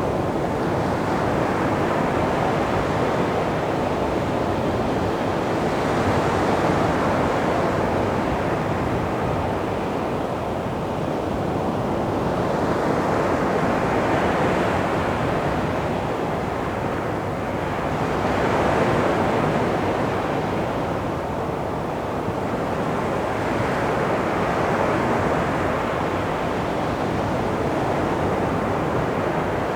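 Sea waves breaking and washing up a beach, a continuous surf hiss that swells and ebbs every few seconds.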